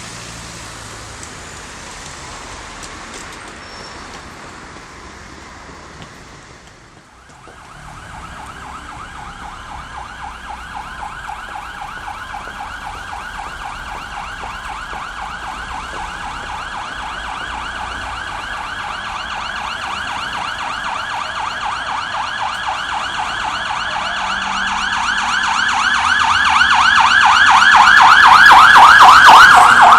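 Street noise at first, then from about seven seconds in a fire engine's siren in a fast repeating yelp, growing steadily louder as the engine approaches and loudest near the end.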